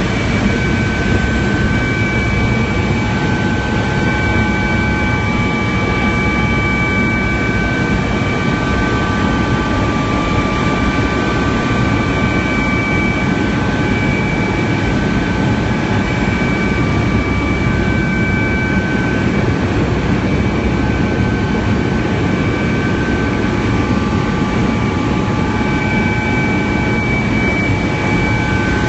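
Helicopter engine and rotor noise heard from inside the cabin in flight: a steady, loud drone with a thin, constant high whine on top.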